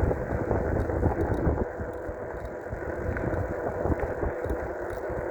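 Riding noise from a dual-motor electric bike: wind buffeting the microphone over tyre and road rumble. The rumble eases a little about a quarter of the way in.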